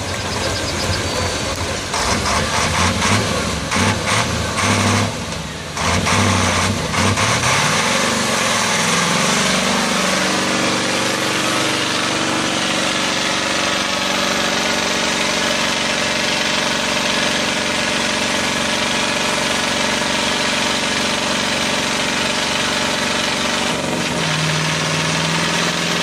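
Heavy truck engine running, choppy and uneven for the first several seconds, then rising in pitch and settling into a steady run; the low note shifts near the end.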